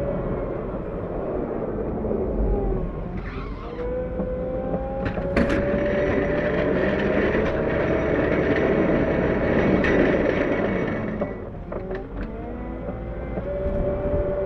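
CAT 908 compact wheel loader's diesel engine running hard while plowing snow. Its pitch drops and climbs again around three to four seconds in and again about twelve seconds in, with a few sharp clanks.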